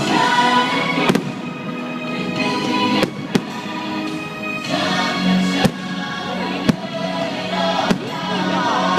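Fireworks show music playing, with about six sharp firework bangs scattered through it.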